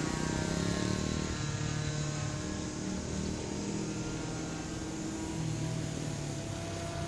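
Two-stroke .55AX glow engine of a radio-controlled Edge 540 model aerobatic plane running in flight, its propeller note falling in pitch in the first second, then climbing again near the end as the plane manoeuvres.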